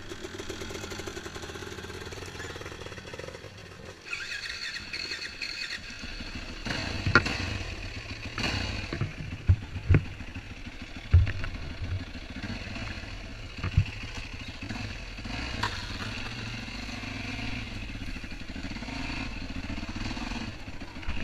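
Honda CR125 two-stroke motocross bike engine running, with a few sharp cracks or knocks in the middle stretch.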